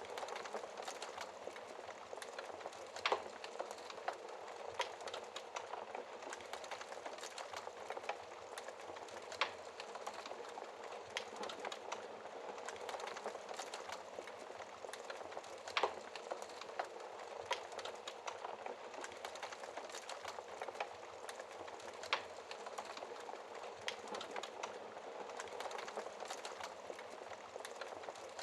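Wood fire burning in a fireplace: a steady hiss of burning logs with irregular crackles and pops, a few of them sharper and louder.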